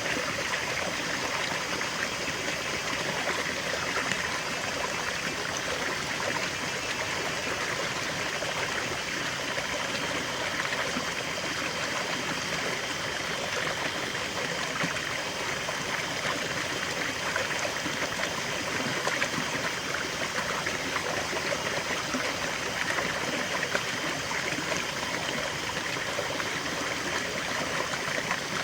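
A river flowing steadily, its water running and trickling over stones in an even, unbroken rush.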